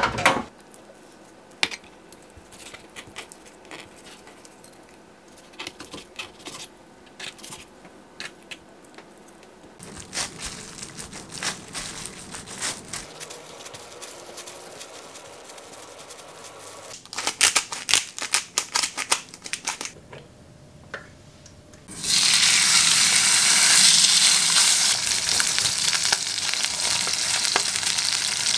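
Quiet kitchen handling sounds, with light crinkling and small clicks and taps. About three quarters of the way through, food hits a hot frying pan and sizzles loudly and steadily.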